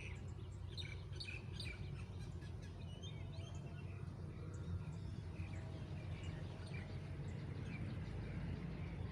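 Birds chirping in many short calls, busiest in the first two seconds and thinning out after, over a steady low rumble.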